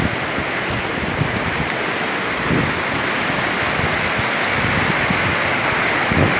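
Steady rush of fast-flowing water, a loud, even noise with no let-up.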